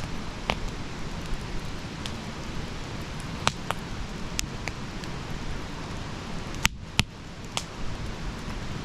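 Wood fire burning, a steady hiss and rustle with irregular sharp crackles and pops, two louder pops close together about two-thirds of the way through.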